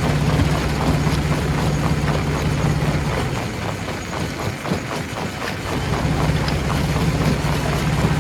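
Stone crusher running, with a steady low machine hum over continuous rattling and clattering of rock. The hum fades away about three seconds in and comes back about six seconds in.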